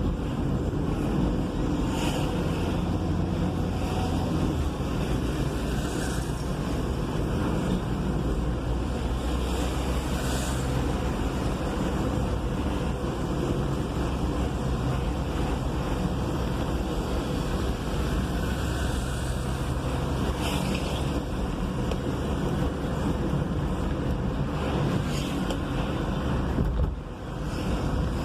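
Diesel vehicle driving in city traffic, heard from the cab: a steady low engine drone with road and traffic noise, and a few brief hisses of passing traffic. The level dips briefly near the end.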